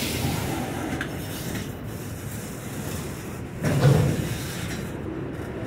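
Freight train flatcars loaded with steel rolling past: a steady rumble and rattle of wheels on rail, with one loud clank about two-thirds of the way through.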